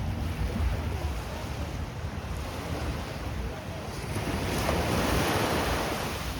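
Sea waves breaking and washing up the beach, with one wash swelling about two-thirds of the way through and easing off. There is a low rumble of wind on the microphone underneath.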